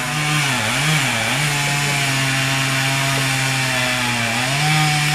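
Chainsaw engine running steadily at high speed during tree felling. Its pitch wavers briefly about a second in and rises slightly near the end.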